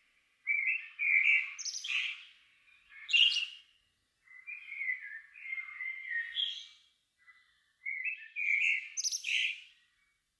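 A songbird singing at dusk: several separate phrases, each a warbled run of notes that climbs into high, thin twittering, with short pauses between them.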